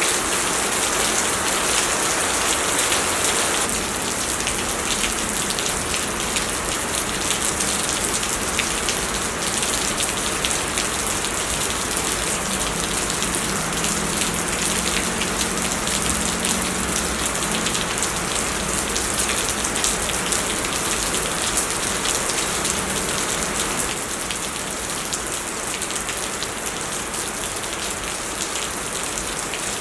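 Heavy rain pouring down steadily, a dense hiss of drops hitting the ground, with slight shifts in loudness about four seconds in and again near the end.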